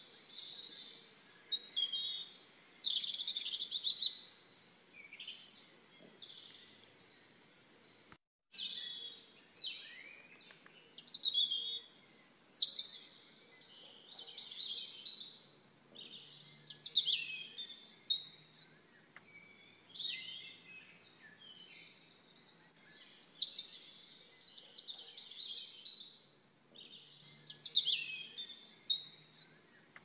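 Songbirds chirping and trilling, several high calls overlapping in bursts every few seconds, with a faint steady background hiss. The sound cuts out completely for a moment about eight seconds in.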